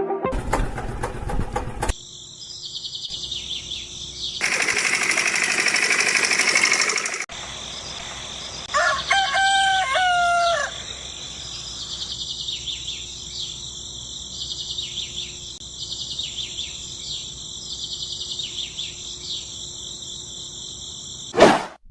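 A rooster crows once, about nine seconds in, over steady high-pitched insect chirping. A loud rushing noise comes a few seconds earlier.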